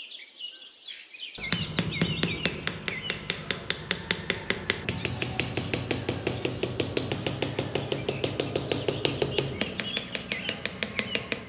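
Birds chirping. From about a second and a half in, a fast, even tapping of about five or six knocks a second starts, with a low steady hum under it.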